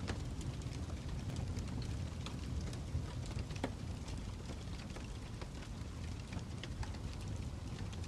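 Fire crackling: irregular sharp pops and snaps over a steady low rush.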